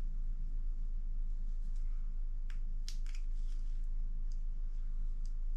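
A few small sharp clicks and scrapes as an old O-ring is worked off an engine oil part by hand, over a steady low hum.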